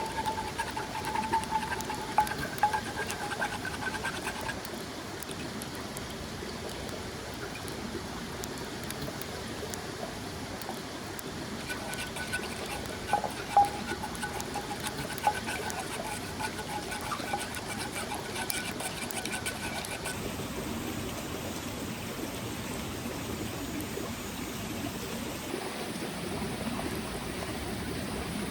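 A small mountain stream flowing steadily, with scattered light clicks and, at times, a faint wavering tone over it.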